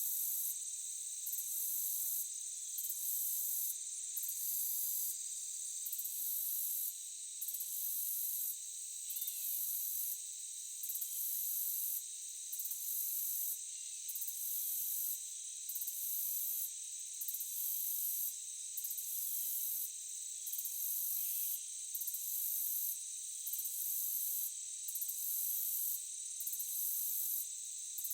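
Night-time forest insect chorus: a steady high buzzing, with a still higher layer of song that pulses on and off about every second and a half. A few faint chirps are heard over it.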